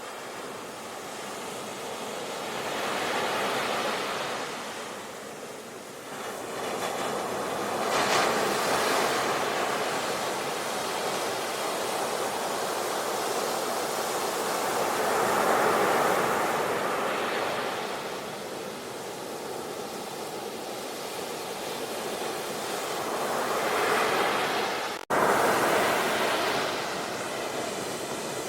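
Ocean waves breaking and washing in, a rushing surge that swells and fades every several seconds. About 25 seconds in, the sound drops out for an instant and comes straight back louder, as at a splice.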